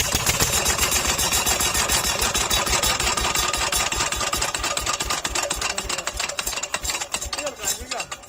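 Old stationary diesel engine running with a steady, rapid knocking beat of its firing strokes. It dies down near the end.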